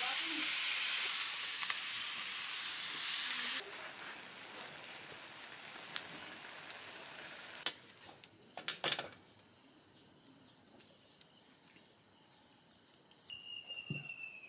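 Paklay of bamboo shoots sizzling in a wok over a wood fire. The sizzle cuts off suddenly after about three and a half seconds, leaving a steady chorus of crickets and other insects with a few sharp clicks, and a short falling whistle near the end.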